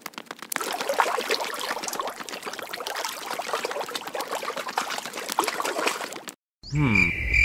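Water trickling and splashing, a steady stream of small drips and gurgles, which cuts off suddenly near the end. A short cartoon sound effect with wobbling, sliding tones follows in the last second.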